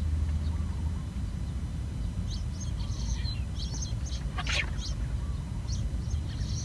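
Small birds chirping in a quick series of short, high calls over a steady low rumble. There is one brief sharp sound about two-thirds of the way through.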